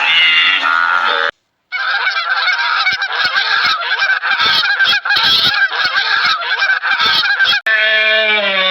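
A flock of domestic waterfowl honking, many short calls overlapping, after a brief cut of silence about a second and a half in. Near the end it cuts to a single long, low, drawn-out call from another animal.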